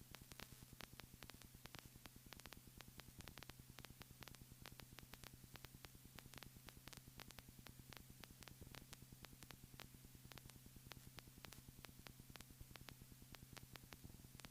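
Near silence: a faint steady electrical hum with a rapid, even crackle of tiny clicks, many each second, like line noise on the audio feed.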